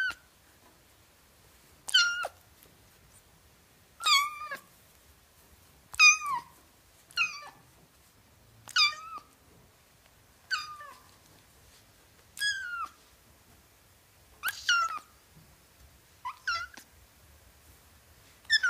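Kitten meowing over and over, one high-pitched meow about every two seconds, each dropping in pitch at its end.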